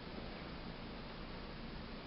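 Steady hiss of hurricane rain and wind, with a low hum underneath.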